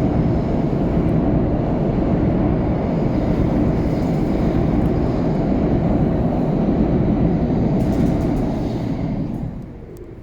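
A loud, steady low rumble with no distinct tones, fading away about nine to ten seconds in.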